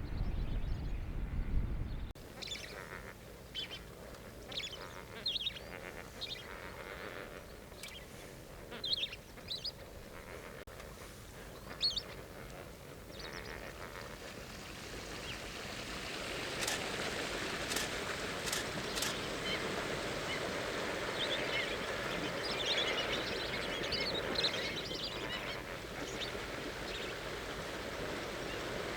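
A flock of birds calling. Scattered short calls come first, then a dense, continuous chorus of overlapping calls from about halfway through. A low rumble stops about two seconds in.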